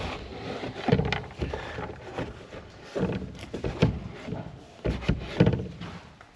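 Feed pans being brushed out and handled: scraping strokes broken by several knocks and thumps as the pans are moved and banged clean.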